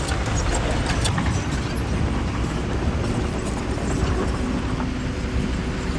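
Bulldozer's diesel engine running steadily under load, with scattered clicks and clanks from the tracks and stone, mostly in the first second or so.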